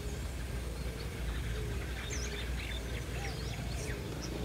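Birds chirping and calling with many short, quick whistles, over a low steady rumble.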